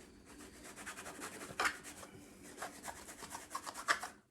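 Scrubbing a wet, dirty cap brim: rapid back-and-forth rubbing strokes, with a couple of louder scrapes.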